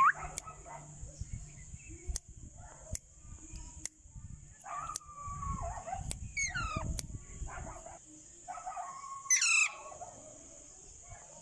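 Alexandrine and ringneck parakeets chattering in short calls, with loud sweeping whistled shrieks: one at the start, one about six seconds in, and the loudest about nine seconds in. There are a few sharp clicks and a steady high hiss underneath.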